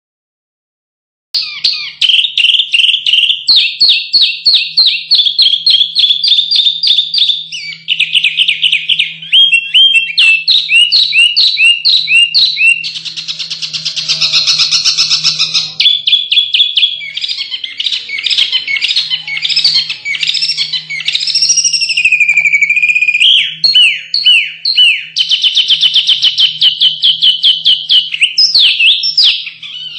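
Small songbirds singing in fast, sharp, chattering phrases of rapidly repeated notes, starting about a second and a half in after a brief silence. A masteran recording of small birds in aggressive song, used to spur caged songbirds to sing.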